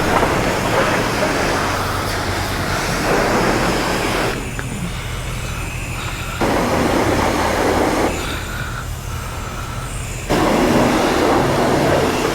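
High-pressure car-wash wand spraying water onto a motorcycle in three spells, with quieter stretches between them where the spray eases off, over a steady low hum from the wash equipment.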